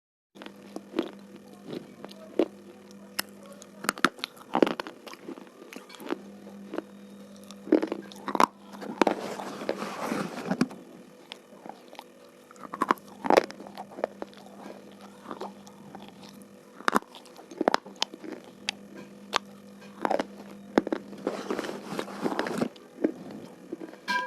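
Slate pencils being bitten and chewed: sharp, crisp snaps at irregular intervals, with two longer stretches of grinding crunches around the middle and near the end, over a steady low hum.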